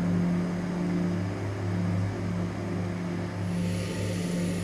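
Turboprop aircraft engines droning steadily, a low even hum with a few sustained tones.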